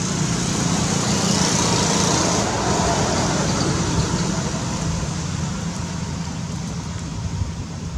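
A steady rumble and hiss like road traffic, swelling about a second in and easing off after about three seconds.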